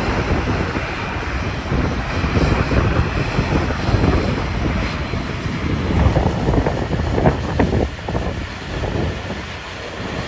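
Jet aircraft engines running, heard outdoors with gusty wind buffeting the microphone.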